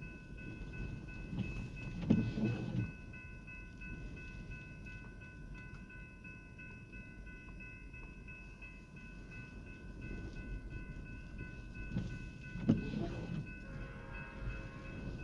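Train running past a railroad grade crossing, heard from inside a parked car in the rain: a steady low rumble with thin steady ringing tones over it, and two louder low thumps, one near the start and one near the end.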